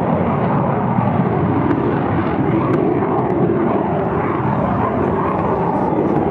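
English Electric Canberra's twin Rolls-Royce Avon turbojets: loud, steady jet noise from the aircraft in flight.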